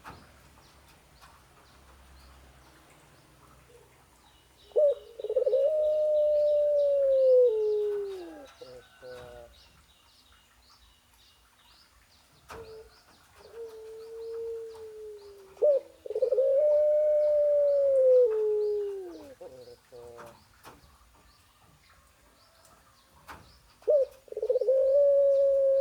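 A female animal's mating call to a male: three long, drawn-out calls, each held and then sliding down in pitch at the end, with a short note before each.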